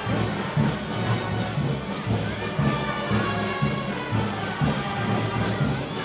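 Brass band playing Moros y Cristianos festival music, with a steady low beat under sustained brass lines.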